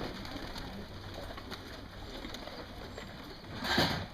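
Young racing pigeons cooing and shuffling around the loft, with a short loud rustle near the end.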